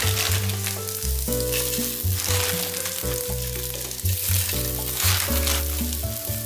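Sausages and onions sizzling in hot oil in a Ninja Speedi's pot on the sear/sauté setting, the sizzle continuing as the sausages are laid in. Background bossa nova music plays under it.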